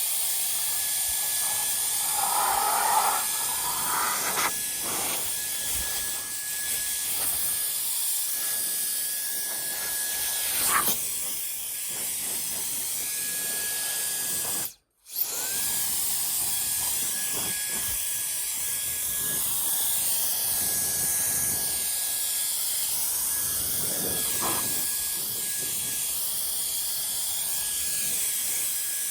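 Steady hiss with a thin, constant high whine running through it, and a few faint short knocks; the sound cuts out for an instant about halfway through.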